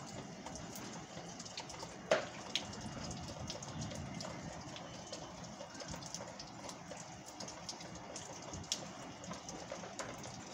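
Steady rain falling, with close drips from the porch roof tapping irregularly and one sharper tap about two seconds in.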